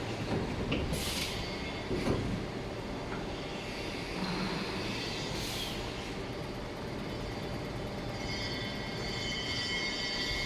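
Injection moulding machine with an 8.5 g bottle-preform mould running in its cycle: a steady mechanical running noise with two short hisses, a knock about two seconds in, and a steady high whine coming in near the end.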